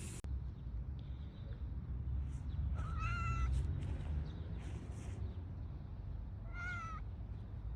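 A domestic cat meowing twice, a held meow a few seconds in and a shorter one near the end, over a steady low rumble.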